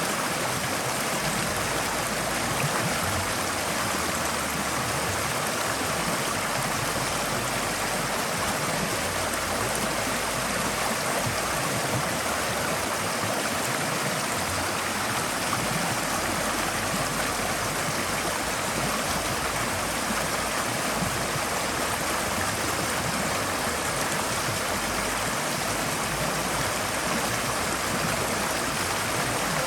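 Forest stream flowing over rocks: a steady, even rush of water with light gurgling.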